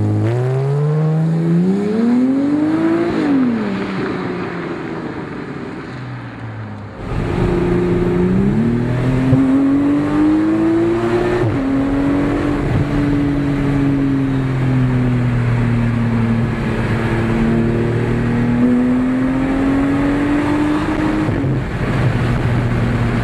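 Porsche Cayman R's flat-six through a Fabspeed Maxflo race exhaust, accelerating with the pitch climbing, then dropping at a gear change or lift-off about three seconds in and fading. After an abrupt change to a heavy low rumble about seven seconds in, it accelerates again and shifts up about eleven seconds in. It then runs on with the engine note rising and falling gently.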